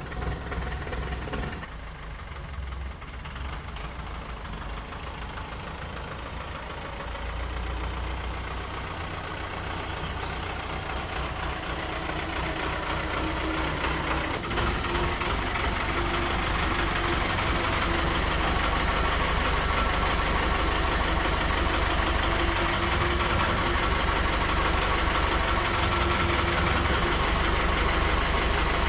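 An engine or motor running steadily with a low rumble, gradually getting louder.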